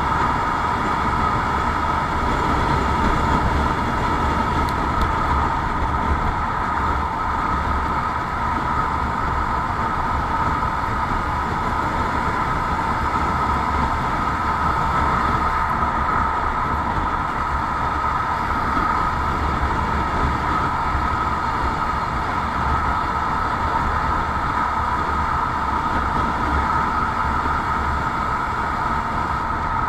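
Motorcycle running at a steady cruising speed, a constant drone over a low rumble that holds level with no change in pace.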